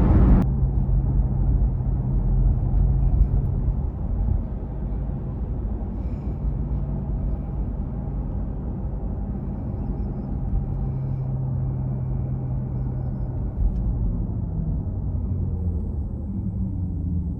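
A Porsche Taycan driving on the road: steady low road-and-tyre rumble with a faint low hum underneath. A brighter hiss cuts off sharply about half a second in.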